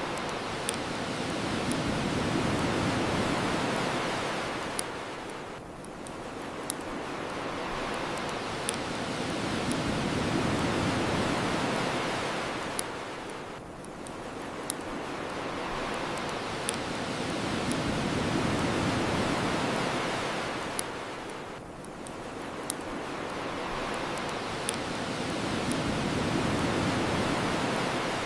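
Ocean waves washing onto a shore, the surf swelling and fading about every eight seconds. Sharp pops of a crackling bonfire sound about every two seconds over it.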